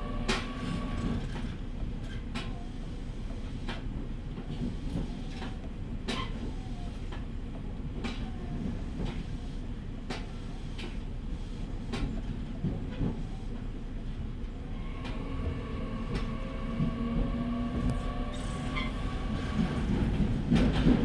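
Running sound inside a JR East E501 series electric train moving slowly under a strong-wind speed restriction: a steady low rumble, with the wheels clicking over rail joints every couple of seconds. About fifteen seconds in, the traction motors' whine comes in and rises in pitch for several seconds as the train powers.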